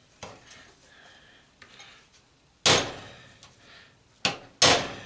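Hammer striking metal: three sharp, loud blows, the last two close together, after a lighter knock near the start.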